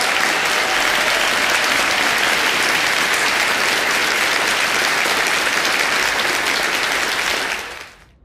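Large crowd applauding: dense, steady clapping that fades away near the end.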